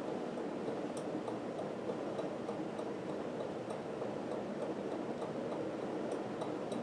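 1980s Homestead WhisperFan II ceiling fan running steadily on high speed: an even rush of air and motor noise, with faint, irregular light ticks.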